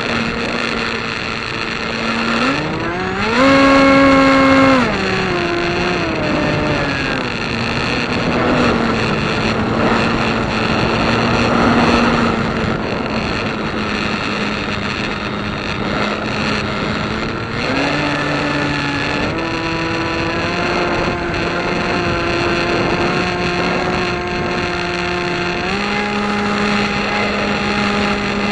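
A piston engine runs continuously, its pitch changing with the throttle. The engine speed goes up about three seconds in, holds for a couple of seconds, then comes back down in steps. It rises again around eighteen seconds and climbs once more near the end.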